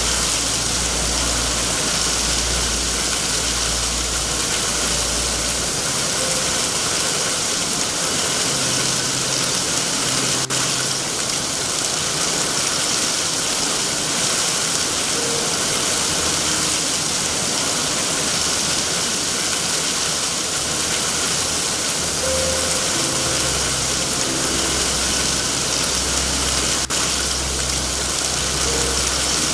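Steady heavy rain, a dense even hiss, with a low rumble coming and going underneath and two faint sharp pops, one about a third of the way in and one near the end.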